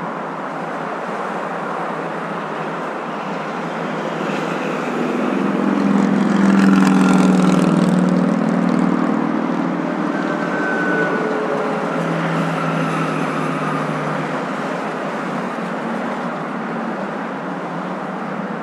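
Steady road noise of a moving car. It swells for several seconds, loudest about seven seconds in, with some engine tones gliding in pitch, then settles back to the steady noise.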